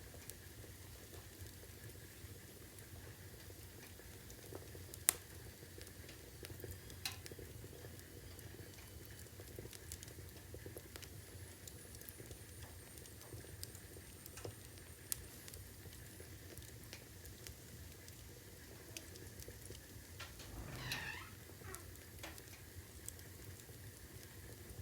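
Burning logs crackling: a low steady hiss with scattered pops, the sharpest about five seconds in and another about seven seconds in, and a brief hiss around twenty-one seconds.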